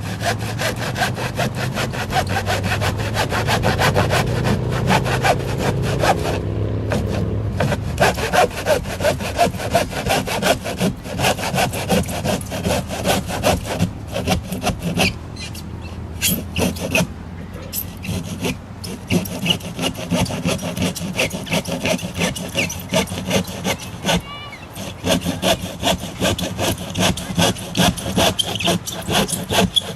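A handsaw cutting through cardboard in rapid back-and-forth strokes.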